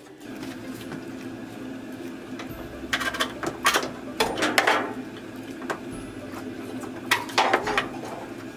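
Clicks and clatter as a top-loading washer's plastic control panel is pried off its snap clips with a flat-blade screwdriver: a cluster of sharp knocks three to five seconds in and another near the end.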